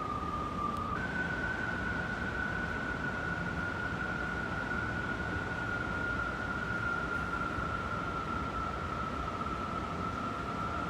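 Strong wind howling: one whistling howl over a steady rushing noise. Its pitch steps up about a second in, then sinks slowly and rises again near the end.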